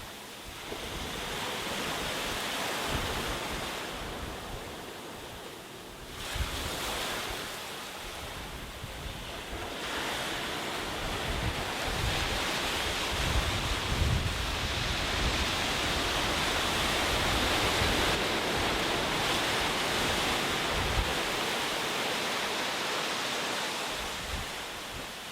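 Sea waves breaking and washing up on a beach, the surf swelling and ebbing in surges a few seconds apart, with wind buffeting the microphone.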